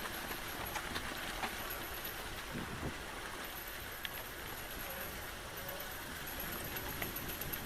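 Mountain bike rolling over a dirt forest trail: steady tyre and wind noise with scattered clicks and rattles from the bike.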